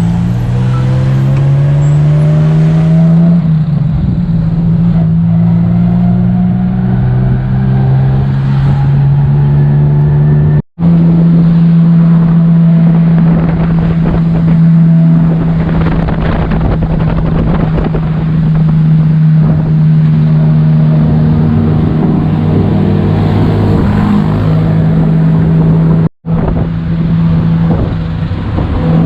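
Tuk-tuk engine running loud under way, its pitch climbing as it revs up at the start and then settling into a steady drone. The sound drops out for an instant twice.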